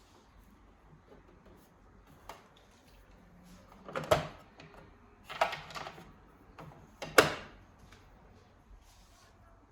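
Handling noises of the machine and tools being worked on: a handful of separate knocks and clatters, the loudest about four seconds in and another about seven seconds in.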